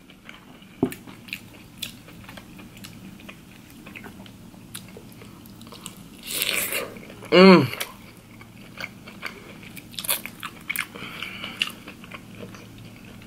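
A person eating close to the microphone: chewing and crunching with many small mouth clicks, and a short hummed "mm" falling in pitch about seven and a half seconds in.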